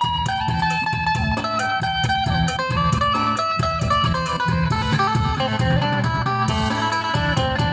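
Isan phin, a Thai plucked lute, playing a fast run of plucked melody notes over a steady bass and drum beat.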